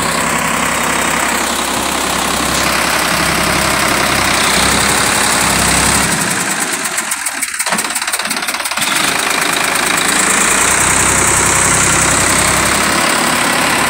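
Sonalika DI-50 RX tractor's diesel engine running steadily, with its low rumble dropping away for a couple of seconds about halfway through.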